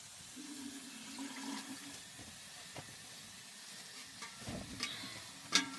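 Steady rain falling as an even hiss, with a sharp click near the end.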